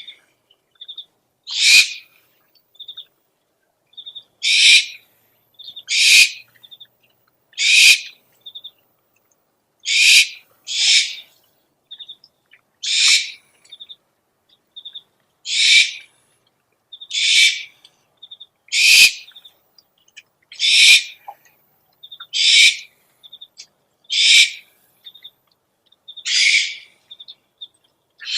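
Owl calls from a lure recording: a loud, high, rasping call repeated about every one to two seconds, with short, soft high peeps in between.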